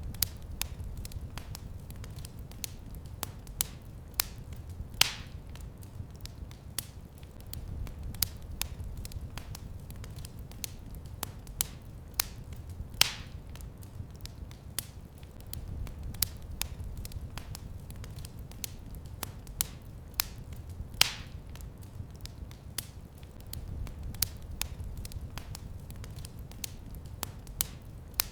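Wood fire crackling in a fireplace, with many small snaps over a low rumble of the flames. Three louder pops come about eight seconds apart.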